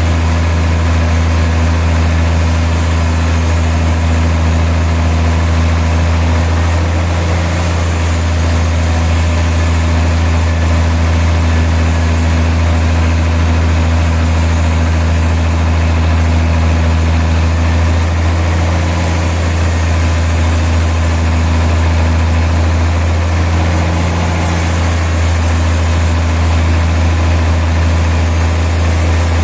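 Sawmill machinery running with a steady, loud low hum, its pitch holding even throughout.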